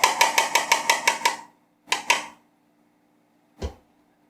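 A paintbrush tapped rapidly against a hard container, about six light clinks a second for a second and a half, then two more, and a soft low thump near the end.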